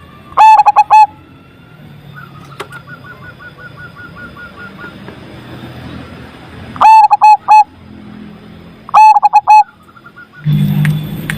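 Zebra dove (perkutut) cooing loudly: three short phrases of rapid coo notes, one near the start and two close together in the second half. Faint chirping lies underneath.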